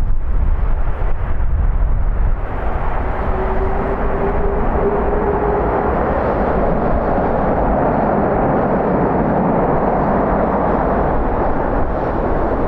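Jet airliner's engines passing, a broad roar that builds after about two seconds and holds to near the end, with a brief steady tone in its early part. Wind rumbles on the microphone underneath.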